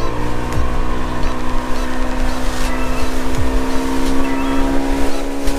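Boat motor running steadily under way, its pitch stepping up slightly at the start and then holding even.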